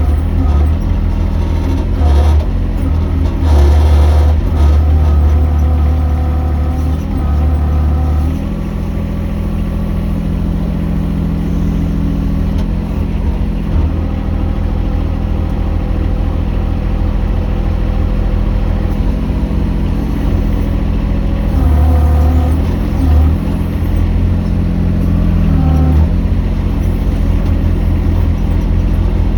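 Mini excavator engine running steadily under work. Its note shifts about eight seconds in and again around twenty-two seconds as the load changes.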